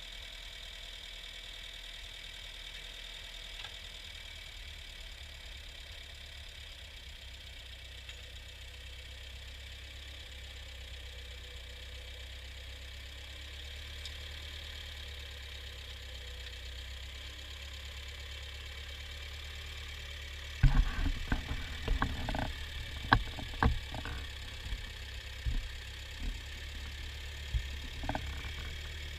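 Ford farm tractor engine running steadily. About two-thirds of the way in, a run of sharp, irregular knocks starts over it, the loudest coming first, then tapers off to scattered single knocks near the end.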